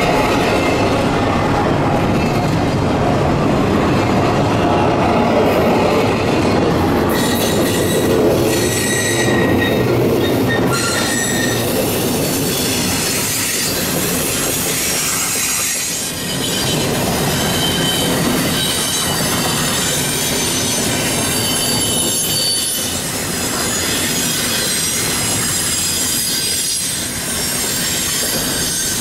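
Long freight train's cars rolling past on a curve: a steady rumble with wheel clatter, and steel wheels squealing against the rail in high-pitched squeals from about seven seconds in.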